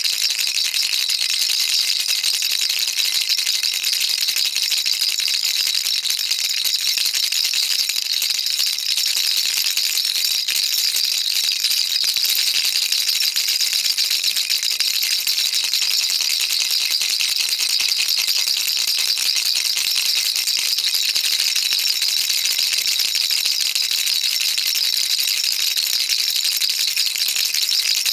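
Baby rattle shaken continuously, a dense, steady, high-pitched rattle of small beads with no pauses.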